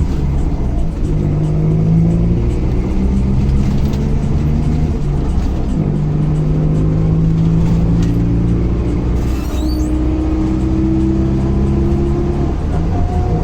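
Mercedes-Benz LO 916 bus's OM924LA four-cylinder turbodiesel pulling through the gears: the engine note climbs steadily, then drops back at each upshift, a few times over.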